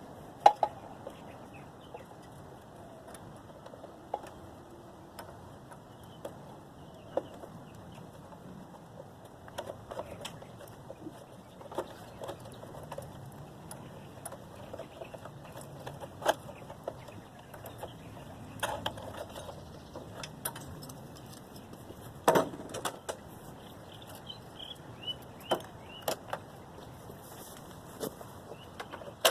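Scattered sharp metal clinks and knocks, roughly one every second or two, the loudest about two-thirds of the way through, typical of hand tools at work on a go-kart's steel frame.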